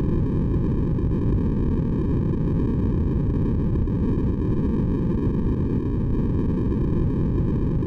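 Steady white noise for baby sleep, deep-toned with most of its weight in the low end and little treble, running evenly without change.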